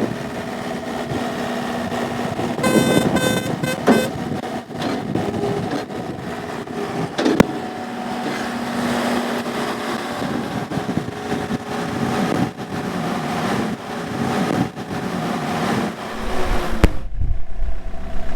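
Komatsu CK30 skid steer's diesel engine running while the machine is operated through its functions, with a few short pulsed tones about three seconds in. The sound changes abruptly near the end.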